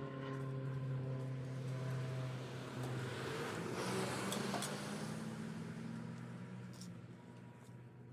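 An engine running with a steady hum that shifts in pitch about three seconds in, with a few clicks, then fades away over the last few seconds.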